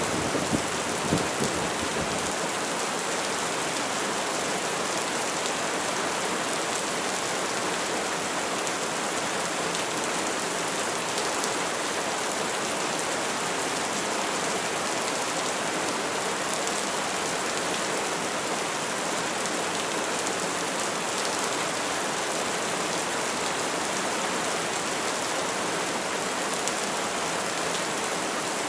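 Steady heavy rain falling on surfaces, an even unbroken hiss. The last of a thunder rumble dies away in the first couple of seconds.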